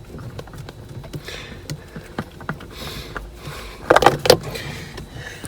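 Small clicks and scrapes of a spin-on oil filter being worked loose on a marine diesel engine. About four seconds in comes a loud, ringing clatter in two quick hits as the filter is dropped.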